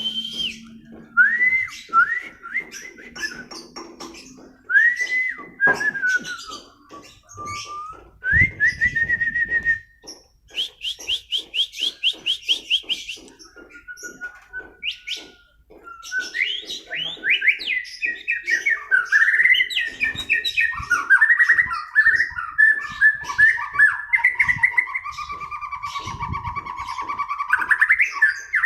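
White-rumped shama (murai batu) singing a long, varied song of clear whistled notes that slide up and down. It includes a fast run of repeated high notes about ten seconds in and a long, unbroken warbling phrase in the second half.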